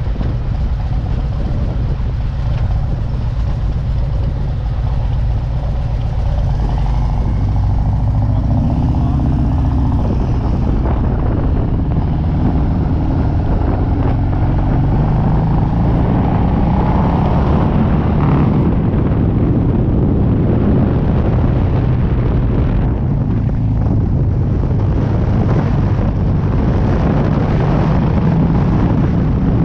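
Harley-Davidson V-twin motorcycle engine idling at a stop, then pulling away about seven seconds in and running at road speed.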